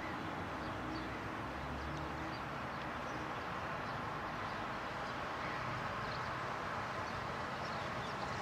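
Steady distant rumble of an approaching Metrorail electric commuter train, with faint short bird chirps above it.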